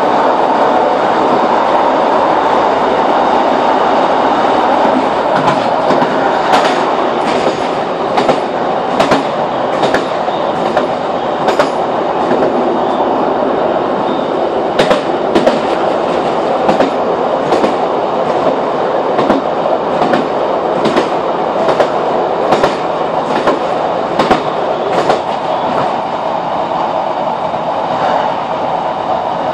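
Cabin noise inside a Class 156 diesel multiple unit running at speed: a steady drone of the train on the rails. From about six seconds in, the wheels click over rail joints, often in pairs, with a clickety-clack rhythm.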